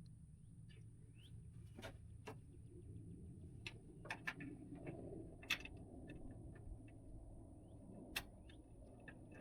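Scattered sharp metal clicks and taps, about seven spread over several seconds, as a nut is worked onto a bolt with hand tools.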